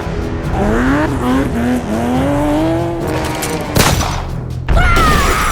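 Vehicle sound effects: an engine revving with its pitch gliding up and down, a sharp crash just under four seconds in, then a loud burst of engine noise with a high squeal falling in pitch.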